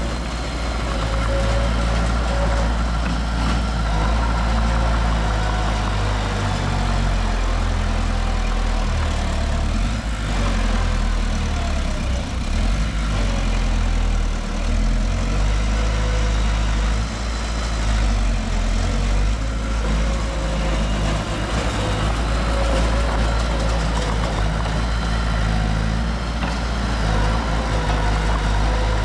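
Heavy diesel earthmoving machinery running steadily, a deep engine rumble with a faint higher whine over it.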